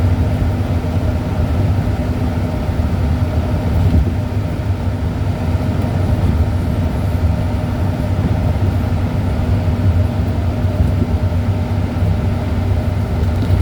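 Steady low engine and road drone of a moving vehicle, heard from inside the cab.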